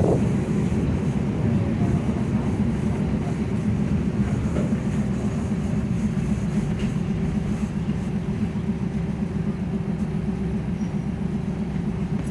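Ordinary passenger train 209 running on the rails: a steady low rumble with a faint humming tone, easing slightly toward the end.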